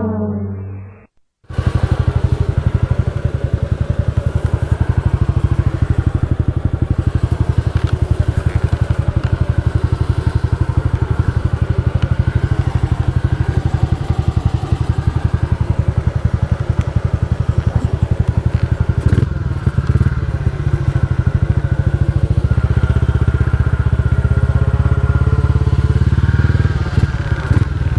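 Motorcycle engine running steadily while riding, with a fast even pulse, starting after a short silence about a second and a half in. A brief clatter comes about two-thirds of the way through.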